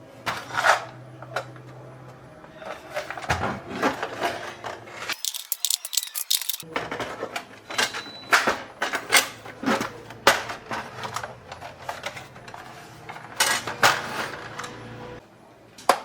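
Irregular clicks, taps and light clatter of small hard parts being handled, like plastic pieces and tools during a bench repair of a toy electronic organ.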